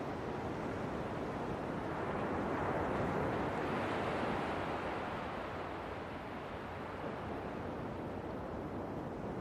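Ocean waves washing in, a steady surge that swells about three to four seconds in and then slowly recedes.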